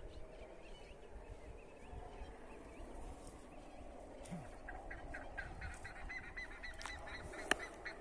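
A bird calling in a quick run of short, repeated notes from about halfway through, over a low steady background rumble, with one sharp click near the end.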